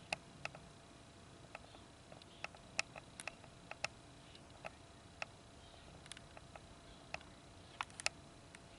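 Faint, irregular sharp clicks, roughly one to three a second, over a low steady background hiss.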